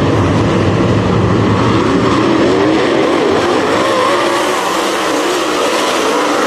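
Race car engine at racing speed on a dirt oval, its pitch rising and falling as the throttle comes off and back on.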